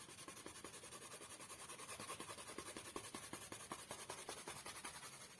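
Colour pencil shading on paper: rapid back-and-forth scratching strokes.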